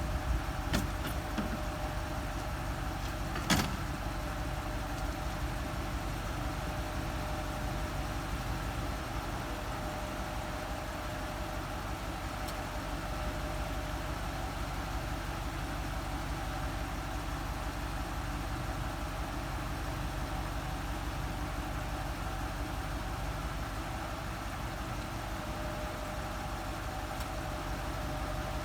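An engine idling steadily, with a sharp click or knock about three and a half seconds in.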